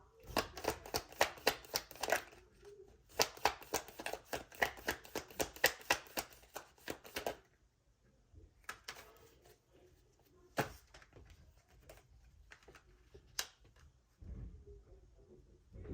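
A deck of tarot cards shuffled by hand in two runs of quick, even clicks, about five a second, followed by a few single card clicks.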